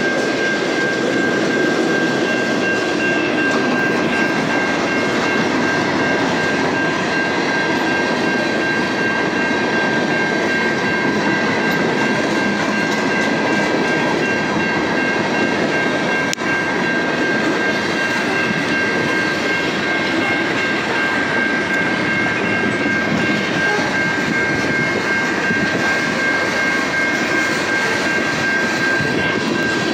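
Freight train cars rolling steadily past: a continuous rumble and rattle of steel wheels on the rails, with a steady high ringing tone running over it.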